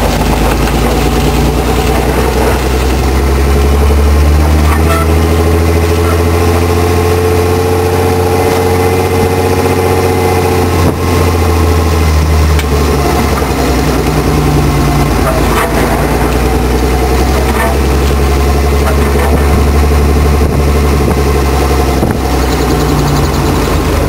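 BMW E28 525e's 2.7-litre straight-six engine and exhaust running while towing a trailer loaded with about 400–500 kg of firewood. It is a steady low drone whose pitch rises over several seconds a few seconds in, then eases back and holds.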